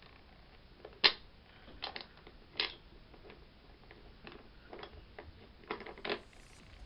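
Scattered, unevenly spaced clicks and taps of a hand tool as a bolt on a creeper frame is undone, the sharpest about a second in.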